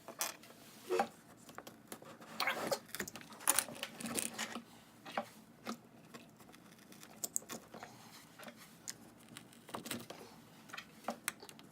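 Irregular small clicks, taps and brief rustles from handling and putting up a set of pins.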